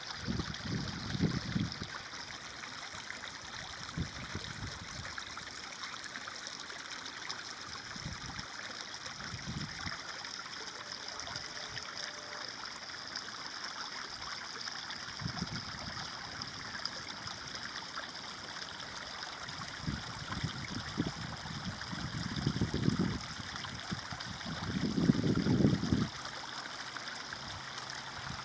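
Stream of water flowing and trickling steadily, with a few short, low surges of sound along the way, the loudest two near the end.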